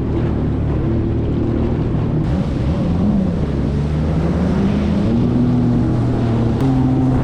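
Jet ski engine running at a steady pitch. About two to three seconds in, the pitch wavers and dips, then climbs back and holds steady.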